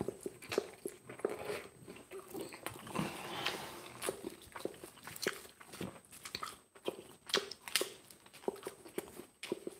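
Close-up biting and chewing of pizza crust: a string of irregular sharp crunches and wet mouth clicks.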